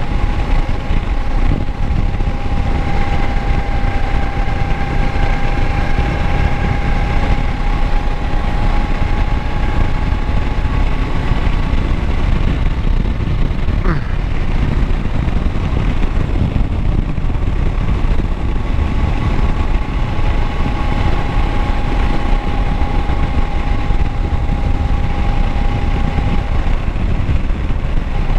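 Kawasaki Versys 650 motorcycle's parallel-twin engine running steadily, a deep rumble with a faint steady whine above it that fades for a few seconds around the middle and returns.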